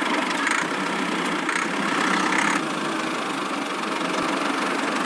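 Small motor of a miniature toy tractor running steadily, a little louder and higher in the first half, easing about two and a half seconds in.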